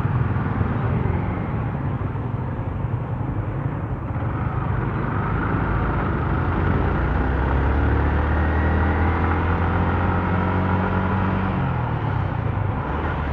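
Motorcycle engine under way with road noise: it speeds up about four seconds in, its pitch climbing for several seconds, holds steady, then eases off and drops in pitch near the end.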